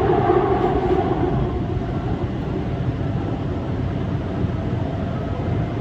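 Seoul Metro Line 2 subway train running, heard from inside the car: a steady noise, with a whine that fades out over the first two seconds.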